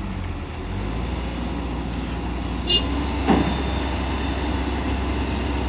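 Kobelco SK140 hydraulic excavator's diesel engine running steadily with a low hum, with a short falling tone just past three seconds in.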